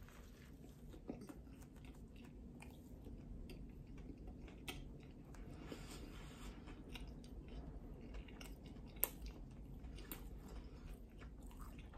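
A faint, close-up chewing of a mouthful of crispy chicken sandwich, with soft wet mouth clicks here and there and one sharper click about nine seconds in.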